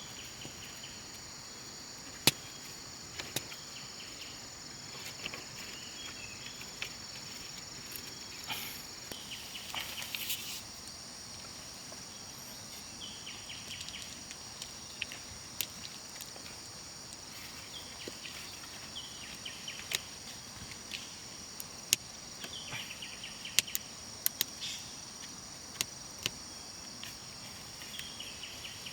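Insects chirring in steady high-pitched tones. Sharp clicks and snaps are scattered through, and short raspy buzzes come every few seconds.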